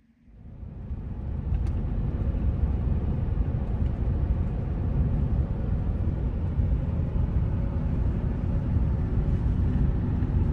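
Steady road and engine rumble inside a moving 2015 Kia Sedona minivan. It comes in suddenly and settles to a constant level within the first second or so.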